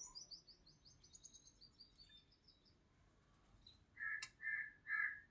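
Birds calling: a fast trill of short, high notes stepping down in pitch, then three loud, short, lower calls near the end, with a sharp click among them.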